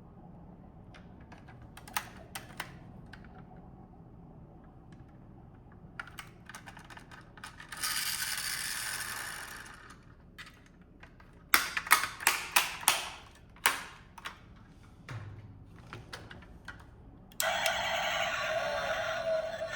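Small mechanical clicks and rattles, scattered at first, with a stretch of hiss about eight seconds in and a dense run of louder clicks a little later. Near the end a steady, louder running sound with a wavering tone starts abruptly.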